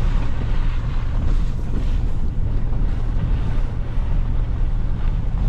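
Truck engine and drivetrain running under load, a steady low rumble with road and wind noise as the truck crawls along a rough trail.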